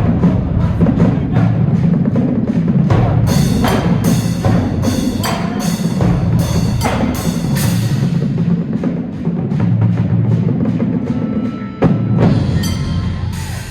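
Marching drumline and percussion ensemble playing a drum feature: rapid, dense drum strokes and accents over a sustained low bass, with a short break near the end followed by a heavy hit.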